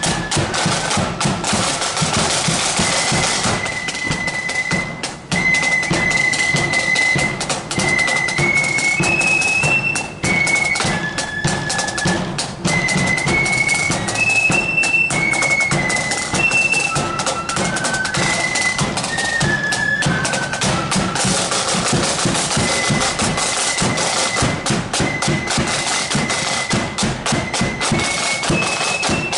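Marching flute band playing a tune: flutes carry a single high melody over rapid, steady drumming from side drums and a bass drum.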